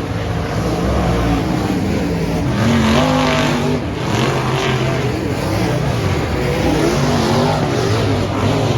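Several dirt-track race cars running laps together, their engines' pitch rising and falling as they accelerate and pass.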